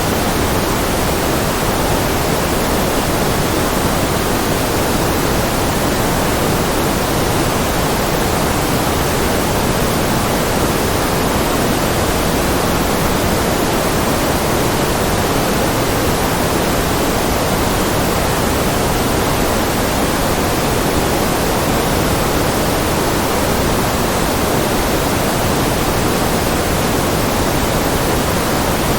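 Steady, unbroken white noise, an even hiss with a little more weight in the low and middle range than in the highs.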